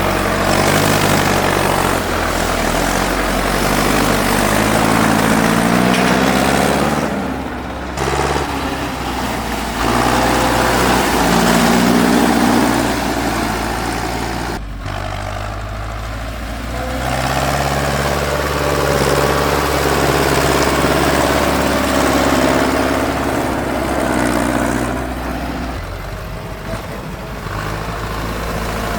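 Tractor engine running and being revved, its pitch rising and falling several times as the throttle is opened and eased off.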